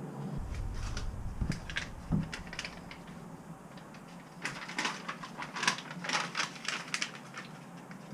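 A sheet of Killmat butyl sound-deadening mat being handled and pressed into place on a van's sheet-metal panel: a few low thumps in the first couple of seconds, then a run of quick crackling clicks about halfway through.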